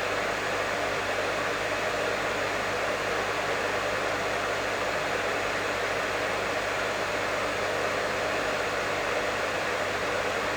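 A professional hair dryer running steadily: an even blowing rush with a faint low hum from its motor, unchanging throughout.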